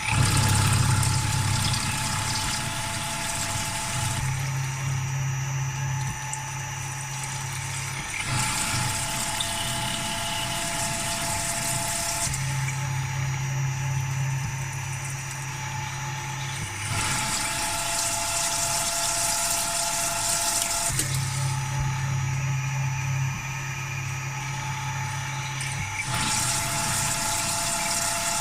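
CNC milling machine running, with a steady whine throughout and a sound that switches every four seconds or so between a low hum and a higher hiss, as the machine works in repeated passes.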